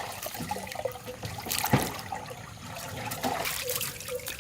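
Water being poured out and splashing and trickling in a large vessel, with a single sharp knock a little under two seconds in.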